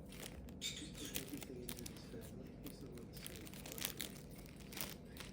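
Faint, scattered crinkling and crackling of a crinkly plaything being handled by a galah cockatoo, in short irregular clicks.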